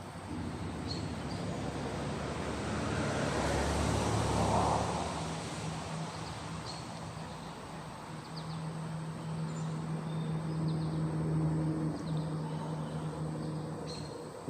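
A motor vehicle's engine passing, swelling to a peak about four seconds in, then a steady low hum that rises and fades again toward the end, with a few short bird chirps over it.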